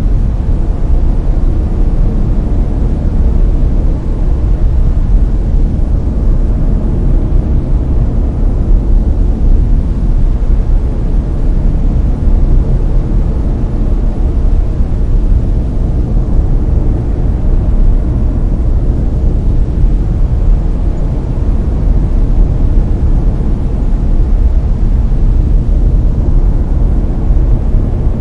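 Layered brown noise: a steady, deep rumbling hiss with most of its weight in the low end, unchanging throughout.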